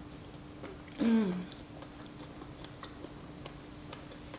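A person chewing a mouthful of thick, chewy glass noodles close to the microphone, with small wet mouth clicks. About a second in, a short voiced sound falls in pitch.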